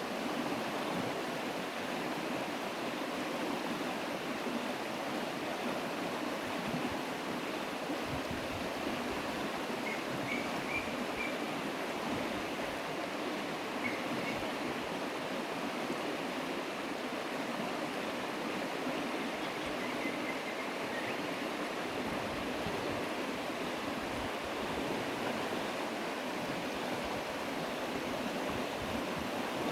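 Running water flowing steadily, an even rushing sound, with a few faint high chirps around the middle.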